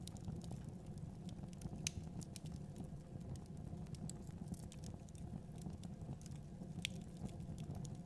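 Wood fire crackling: a steady low rumble of flames with scattered sharp snaps and pops, two louder ones about two seconds in and near the end.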